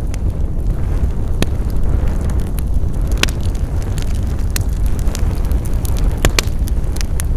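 Wood fire crackling: irregular sharp pops and snaps, several of them loud, over a steady low rumble of burning.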